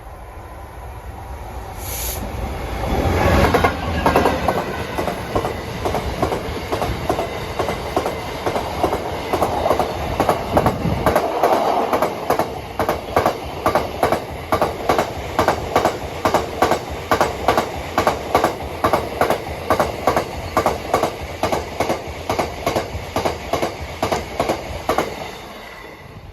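Diesel freight train passing close by: the locomotive's engine rumble comes up and passes about three seconds in, followed by a long, even clickety-clack of wagon wheels over rail joints, about three clicks a second, which stops abruptly near the end.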